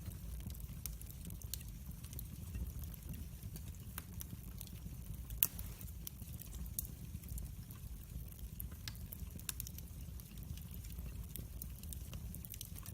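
Wood fire burning in a fireplace: irregular sharp crackles and pops over a low steady rumble of the flames, with one louder pop about five and a half seconds in.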